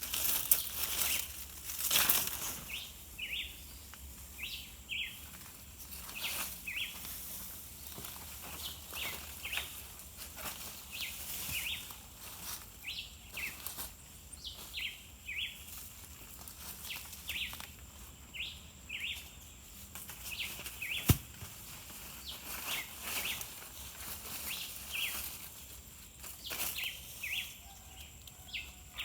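Birds calling over and over with short rising chirps, over rustling of leaves and brush. A single sharp crack about two-thirds of the way through is the loudest sound, with heavier rustling in the first couple of seconds.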